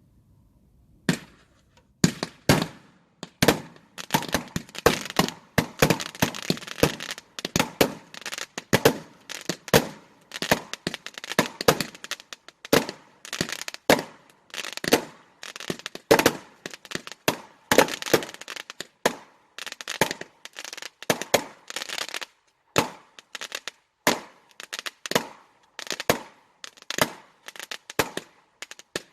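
Fireworks going off in a long, rapid string of sharp bangs, roughly two a second, starting about a second in, each bang with a short echoing tail.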